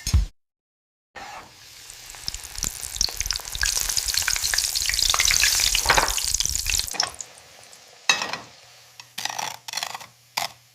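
Chicken cheese balls frying in hot oil, a dense crackling sizzle that starts about a second in, swells, then dies away; a few short knocks follow near the end.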